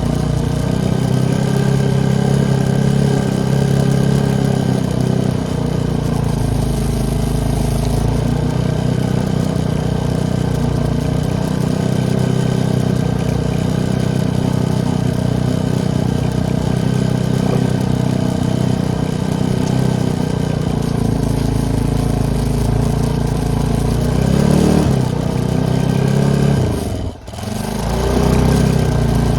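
ATV engine running steadily under throttle while riding, with a brief rev up and back down late on and a sudden momentary drop in loudness just after.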